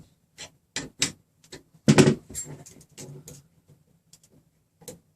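Scattered light clicks and clinks of metal hardware being handled while a nut on a threaded rod is adjusted and measured, with a louder cluster about two seconds in.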